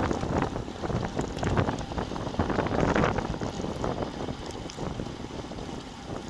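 Wind buffeting a bicycle-mounted camera's microphone while riding, a gusty rush that eases after about four seconds.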